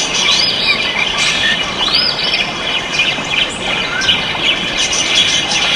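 Many caged ornamental birds chirping, whistling and squawking at once, a dense overlapping chorus of short calls, over a steady noisy background din.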